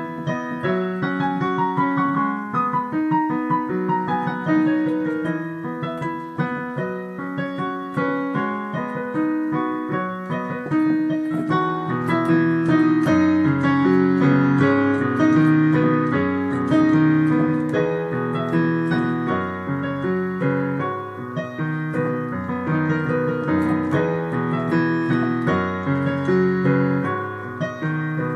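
Solo piano playing a melody over chords. Lower bass notes join about twelve seconds in, and the playing gets a little louder and fuller from there.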